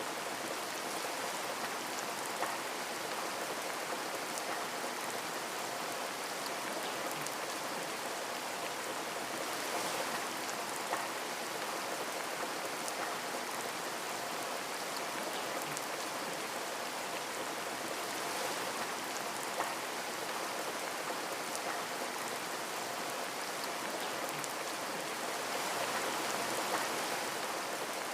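Steady rain falling on a window, a dense even patter with a few louder single drops ticking now and then.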